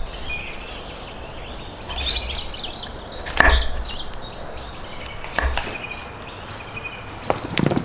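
Small birds chirping and warbling, with a short, thin, high whistle repeating every second or two. Three sharp knocks cut in, the loudest about three and a half seconds in, the others near five and a half seconds and near the end.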